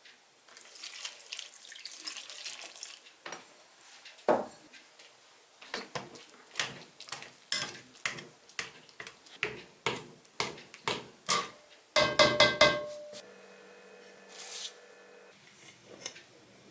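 Kitchen cooking sounds: a run of sharp, evenly spaced knocks at about two a second, then a loud metallic clatter of pots or dishes that rings on for a couple of seconds.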